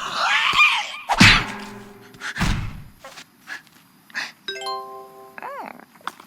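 Cartoon sound effects: a noisy rushing, swirling sound, then two heavy thumps about a second apart, a few light clicks, a chime-like ringing tone, and a short tone that bends up and back down.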